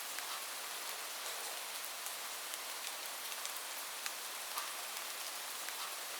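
Steady rain falling on a roof, an even hiss with many sharp individual drop ticks scattered through it.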